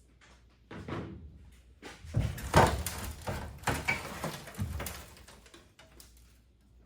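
A run of irregular knocks and clanks, loudest about halfway through, from work on an aluminium jon boat's transom.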